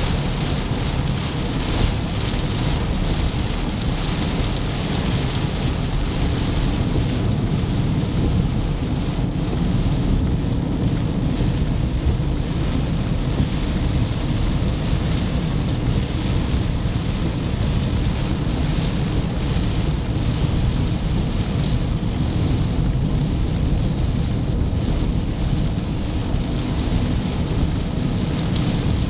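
Scania truck running, a steady low rumble with a hiss over it.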